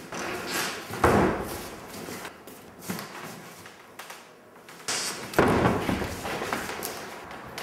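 Two heavy foley thuds, like a door slamming, about a second in and again about five and a half seconds in, with softer knocks and taps between.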